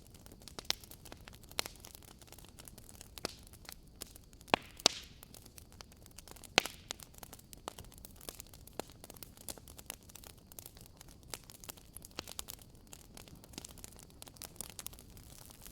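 Wood campfire crackling: irregular sharp pops and snaps over a soft steady hiss. The loudest pops come about five and six and a half seconds in.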